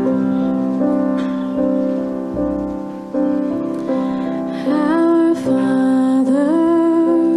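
Slow worship song: a keyboard holds sustained chords, and a singer comes in about two-thirds of the way through with a slow melody that slides between notes.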